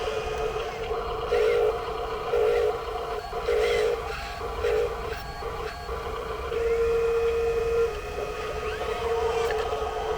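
Whine of the small electric motors in RC construction toys, rising in louder bursts that start and stop as the controls are worked: several short bursts, then a longer run about six and a half seconds in.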